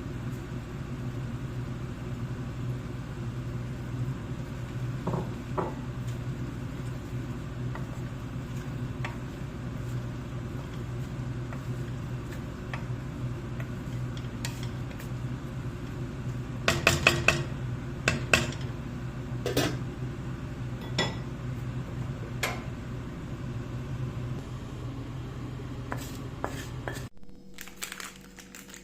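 Dishes and cutlery clinking and knocking: a few sharp clatters, the loudest cluster in the middle. A steady low hum runs underneath and cuts off abruptly near the end.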